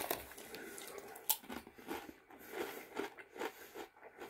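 A person chewing Doritos tortilla chips: soft, irregular crunches, with a sharper crack about a second in and a quicker run of crunches in the middle.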